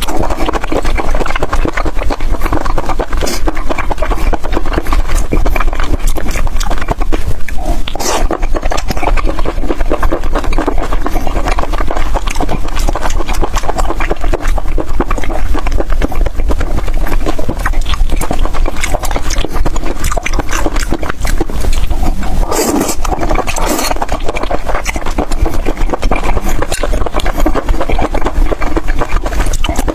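Loud, close-up wet chewing and slurping of raw octopus, a continuous stream of small smacking clicks.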